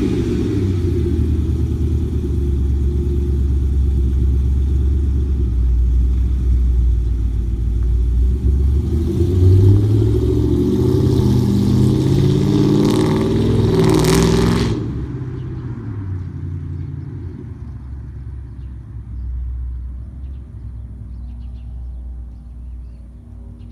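2005 Mustang exhaust with long-tube headers, off-road H-pipe and Borla Stinger mufflers: the engine runs loud, climbing in revs from about nine seconds in. About fifteen seconds in the sound drops sharply, and a low exhaust rumble fades away.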